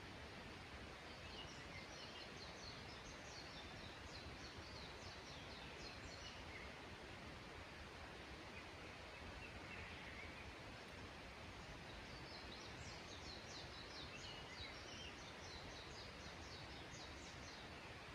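A small songbird singing two long bouts of rapid high notes, the first starting about a second in and the second about twelve seconds in, over a faint steady hiss of outdoor ambience.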